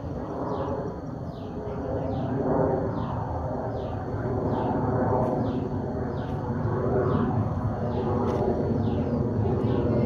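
A bird repeating a short falling call, about one and a half to two times a second, over a steady low rumble.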